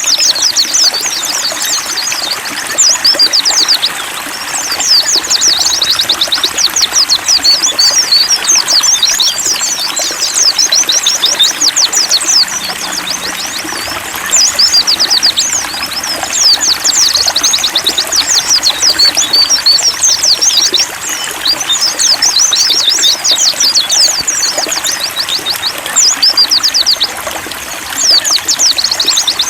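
White-eyes (pleci) singing long phrases of fast, high twittering song with short pauses between them, over the steady trickle of running water.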